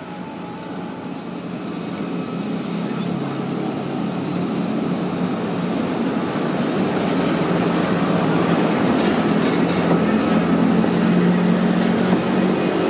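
Freight train of tank wagons hauled by an EF65 electric locomotive pulling away from a stop: a steady running and rolling rumble that grows louder throughout.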